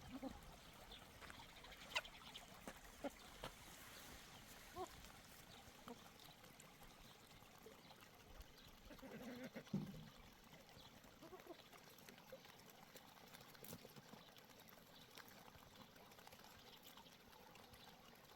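Near silence: faint outdoor background with a few small clicks and a brief low sound about ten seconds in.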